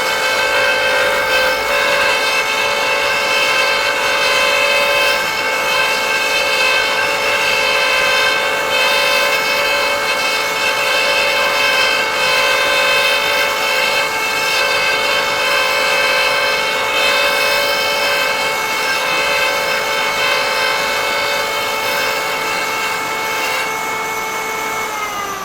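High-speed electric power-tool motor running steadily while its cutter cuts threads into wood, with a steady whine over a rough cutting noise. Near the end the motor is switched off and spins down, its whine falling in pitch.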